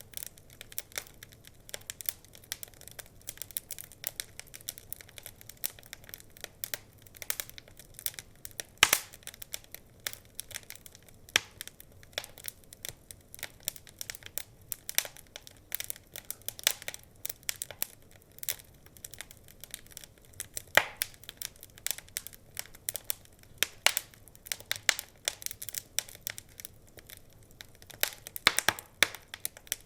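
Wood fire in a fireplace crackling, with constant irregular snaps and a few louder pops.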